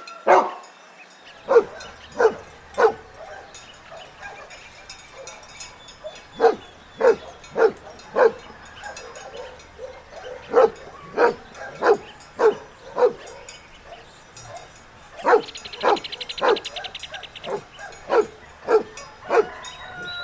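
Dog barking, short sharp barks in runs of three to eight, about one and a half a second, with pauses of a few seconds between the runs.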